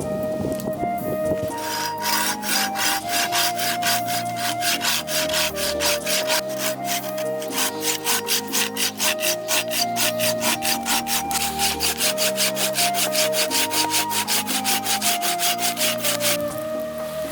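Pruning saw cutting through firewood: rapid, even strokes, about three a second, starting about a second and a half in and stopping near the end.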